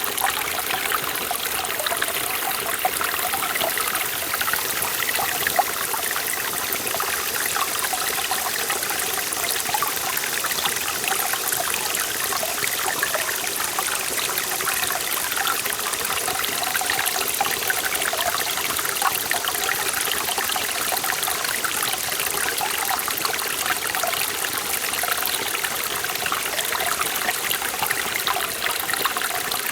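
Forest valley stream running steadily over rocks, a continuous rush of water with bubbling, trickling detail.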